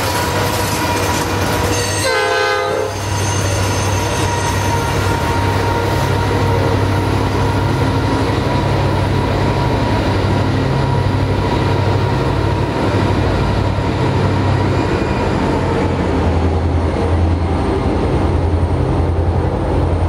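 A freight train's tank cars roll past with steady wheel-and-rail noise and a thin, steady squeal from the wheels in the curve. The rear helper locomotives, a pair of Norfolk Southern SD40E diesels, follow, and their low engine drone grows stronger toward the end. There is a brief burst of pitched tones about two seconds in.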